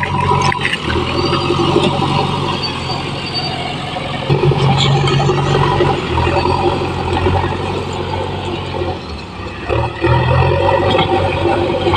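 Backhoe loader's diesel engine running under changing load as it works, its low drone stepping up and down in pitch and loudness a few times.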